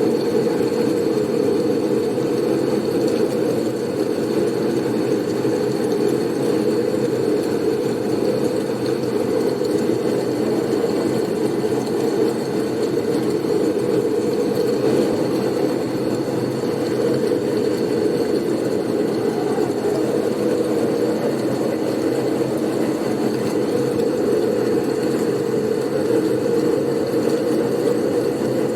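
Snowstorm wind blowing steadily as a dense, low rushing noise, with a faint thin high tone held throughout.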